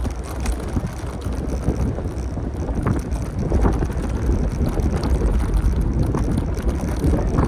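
Wind buffeting the microphone of a camera riding on a moving bicycle, a steady low rumble, with a few faint short street sounds over it.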